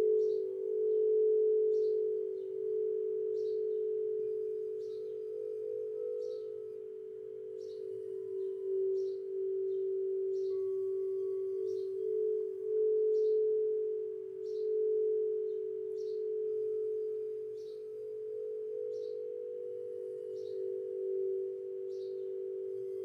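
Singing bowl sounding a sustained, wavering tone that swells and fades. Over it, a bird chirps with short high notes about once a second.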